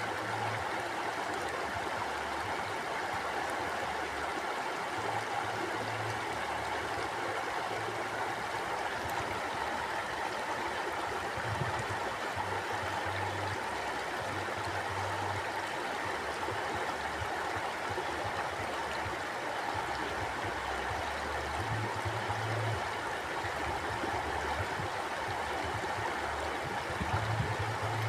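A river or stream flowing steadily, with a continuous even rush of water. An uneven low rumble comes and goes underneath it.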